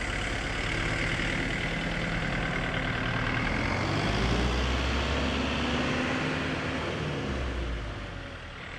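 Heavy vehicle engine running steadily under a broad hiss, its low note shifting about four seconds in and again near the end.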